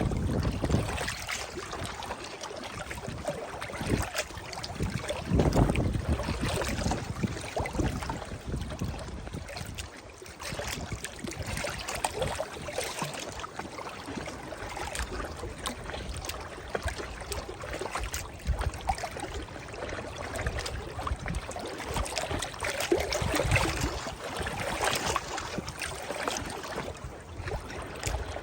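River water lapping and splashing in small waves, a continuous uneven wash with stronger low surges now and then.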